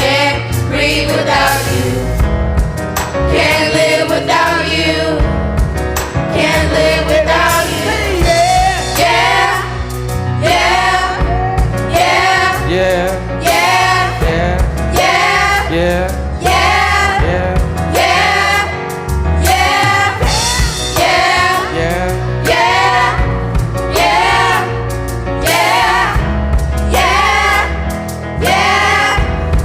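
Live gospel worship music: singers holding long, sliding vocal lines over a band with a steady beat.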